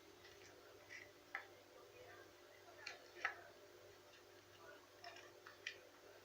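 Faint, irregular clicks and taps, a dozen or so at uneven spacing with the sharpest a little past three seconds in, over a low steady hum.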